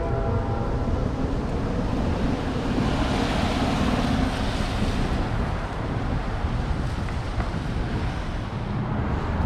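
Steady rushing wind noise on the microphone outdoors, a loud low rumble with hiss that swells a little in the middle.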